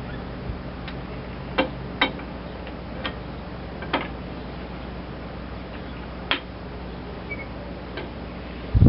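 Irregular light metallic clinks and taps from hand work on a hydraulic lift cylinder, over a steady low hum. A heavier thump comes near the end.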